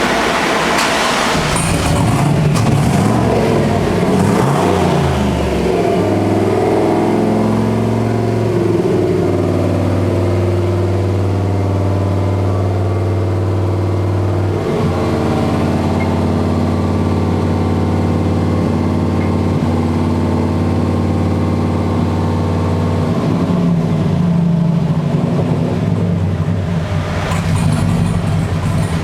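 High-output engine pulling hard on a dyno. The revs climb over the first several seconds and then hold steady for a long stretch. There is a brief hiccup partway through, which the tuner takes for an ignition misfire. The revs drop back near the end.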